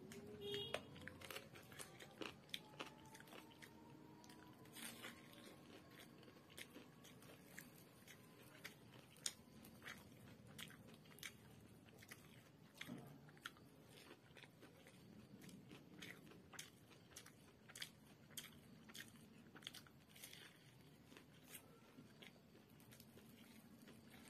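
A person chewing and biting food close to the microphone, faint, with frequent short crisp crunches scattered throughout.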